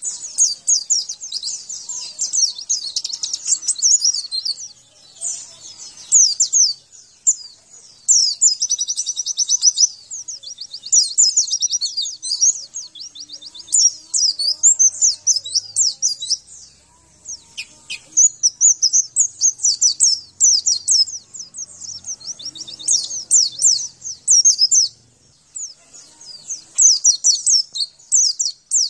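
White-eye (pleci, Zosterops) song: fast, high twittering phrases of rapid chirps, in bursts of one to three seconds with short breaks between them. It is a masteran recording, played to caged white-eyes to set them singing.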